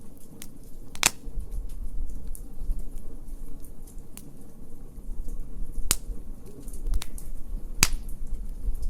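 Wood fire crackling in a fire pit, with scattered sharp pops, the loudest about a second in, near six seconds and near eight, over a low rumble.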